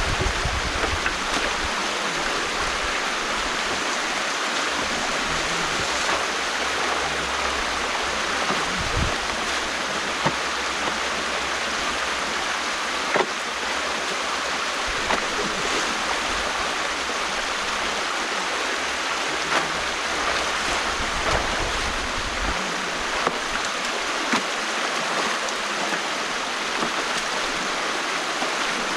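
Stream water rushing steadily through the breach of a partly dismantled beaver dam, with a few faint clicks scattered through it.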